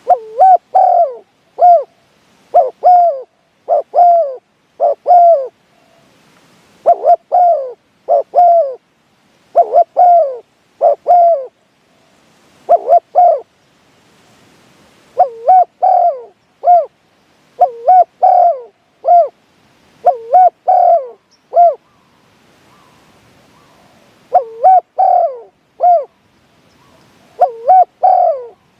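Spotted dove cooing loudly, phrase after phrase of short coos with brief pauses between phrases.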